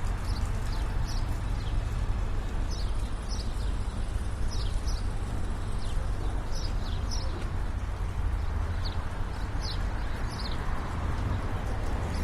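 Street ambience on a walk beside a city road: a steady low rumble of traffic, with short high chirps coming at irregular intervals, often in pairs.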